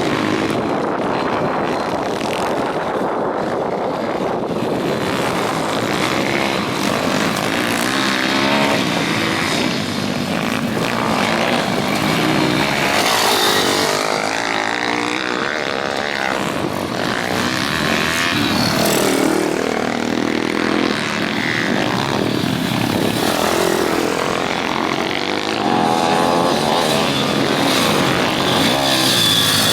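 Several pit bikes racing together, their small engines revving up and down and overlapping as they pass.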